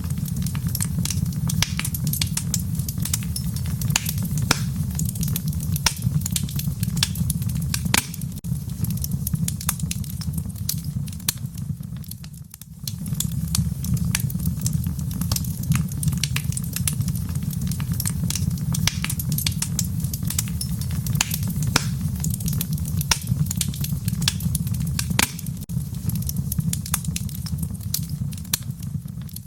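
Wood fire crackling in a fireplace: a steady low rumble of flames under a dense scatter of sharp pops and snaps. The loudness dips briefly about twelve seconds in.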